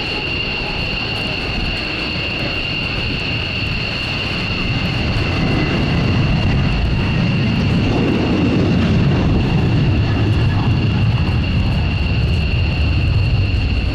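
Aircraft flying past: a low engine rumble that builds from about five seconds in and stays strong, peaking around eight to ten seconds in.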